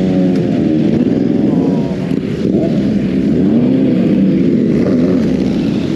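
Royal Enfield Continental GT 650's 648 cc parallel-twin engine running at road speed, its pitch dipping and rising several times as the throttle is eased and opened.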